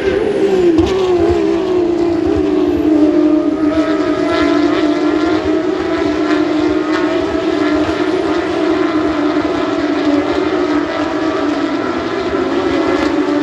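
Race car engine running at high revs on the circuit, its note falling in pitch over the first couple of seconds, then held loud and steady.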